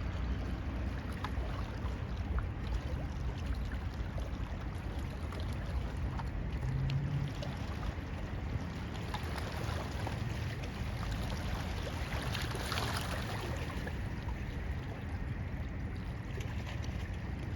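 Steady rumble and rush of a boat moving across a lake, water washing along the hull, with a brief swell of splashing about two-thirds of the way through.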